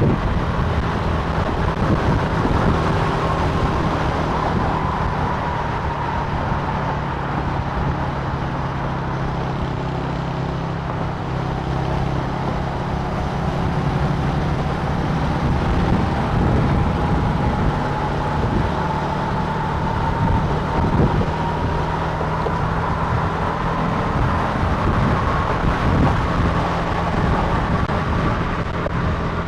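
Italika TC300 motorcycle engine running steadily while riding at cruising speed, with road and wind noise. A faint high whine sags slightly and then rises slowly in pitch.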